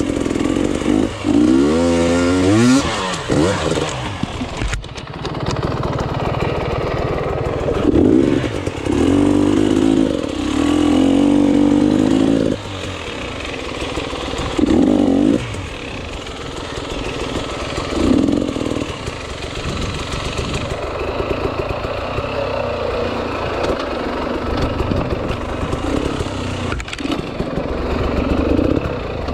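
Enduro motorcycle engine revving up and down in repeated bursts of throttle as it is ridden, running more evenly in the second half.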